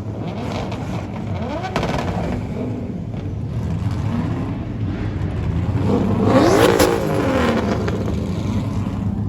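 Drift car engines idling and revving in the street. Several revs rise and fall in pitch, and the loudest comes about six and a half seconds in.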